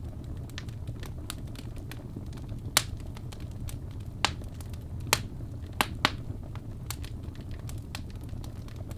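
Wood fire crackling: irregular sharp pops and snaps over a low steady rumble, with a handful of louder pops in the middle.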